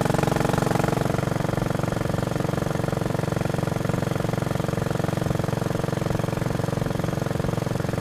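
Royal Enfield Bullet Machismo 500's single-cylinder engine running steadily while the bike is ridden, with an even pulsing beat. It eases off slightly about a second in.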